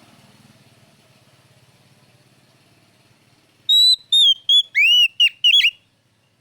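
Oriental magpie-robin (kacer) singing a loud burst of clear whistled phrases, quick rising and falling slurred notes, starting a little before four seconds in and lasting about two seconds. Before it only a faint low hum fades away.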